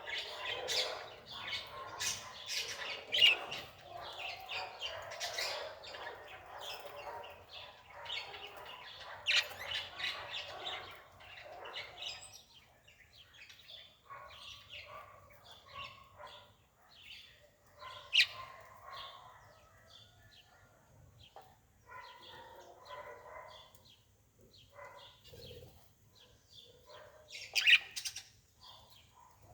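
Birds chirping, many short sharp calls, busiest in the first half and again near the end.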